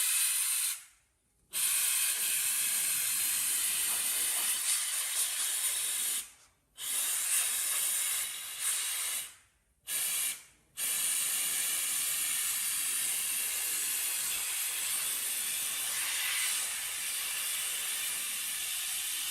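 Steady hiss of a compressed-air spray, broken off abruptly four times for under a second each and then resuming.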